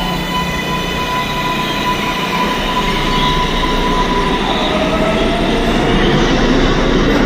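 R143 subway train's electric propulsion whining: a steady high tone that, about four seconds in, gives way to a lower tone rising slowly in pitch, over the rumble of steel wheels on the rails, which grows a little louder near the end.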